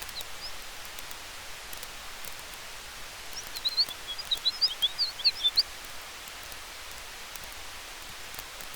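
Steady hiss of a campfire and wind in trees, with faint scattered crackles from the fire. About three and a half seconds in, a quick run of high, chirping bird calls lasts about two seconds and stands out above the hiss.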